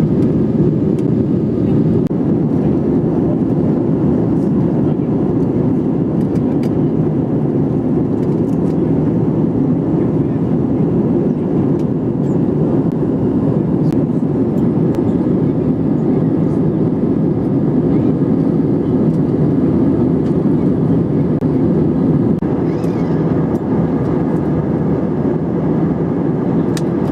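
Steady low rumble of a jet airliner in flight, heard inside the passenger cabin: engine and airflow noise holding an even level, with a few faint clicks.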